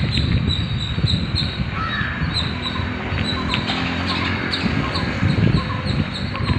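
Birds chirping, one repeating a short high chirp about three times a second, with other calls scattered among it, over a low rumble.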